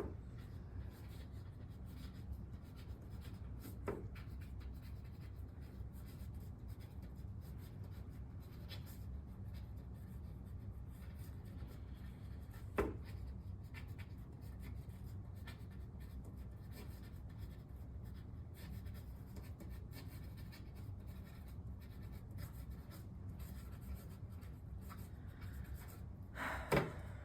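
Writing on paper: a pen scratching quietly over a steady low hum, with a few brief taps about four, thirteen and twenty-seven seconds in.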